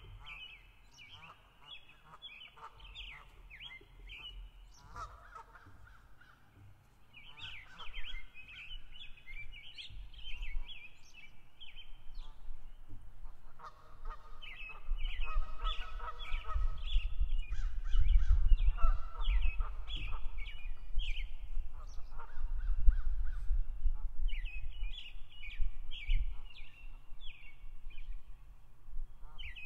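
Birds calling in repeated bouts of rapid, short, high notes, with lower honk-like calls in between. A low rumble swells through the middle and is the loudest part.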